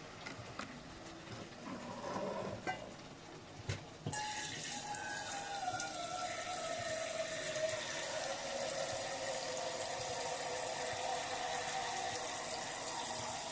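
A few light knocks, then about four seconds in a kitchen tap is turned on and water runs steadily, with a tone that slides down at first and then holds.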